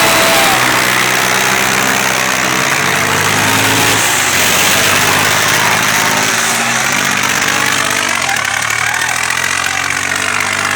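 Diesel tractor engines running hard under heavy load as a Swaraj 855 and a Massey Ferguson 9500 pull against each other in a tug of war. The engine note shifts in pitch about four seconds in and again near eight seconds.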